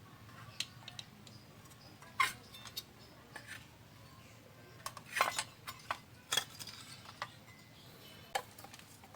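Scattered sharp clicks and light metallic clinks from tools and small electronic parts being handled on a workbench, the loudest a little over 2 seconds in and again around 5 and 6 seconds in.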